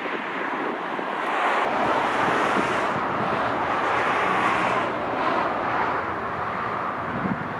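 Wind rushing across the microphone, swelling for about three seconds starting near two seconds in, with a faint low aircraft engine hum mixed in.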